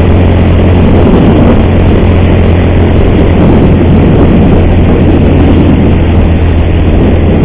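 Motorcycle engine running steadily while riding, with the ugly cam chain noise that the rider finds unbearable and puts down to wear after about 141,000 km of heavy use.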